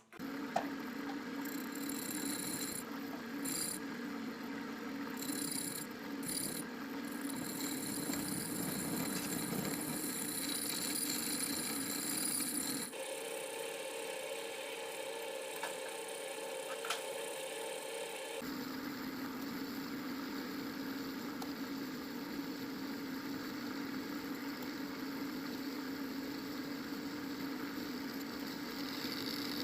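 An electric motor of a workshop machine running steadily, starting abruptly at the outset. Its tone changes suddenly to a higher hum about 13 seconds in and back about 18 seconds in.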